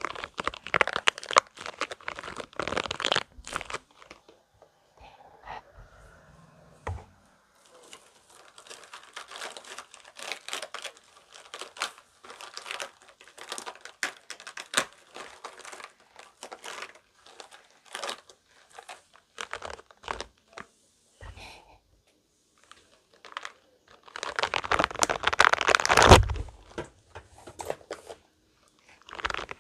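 Spiky rubber balls squeezed and rubbed in the hands close to the microphone, giving crackly, crinkling squishing sounds. The handling comes in dense loud bursts at the start and again about 24 seconds in, with lighter, scattered crackles in between.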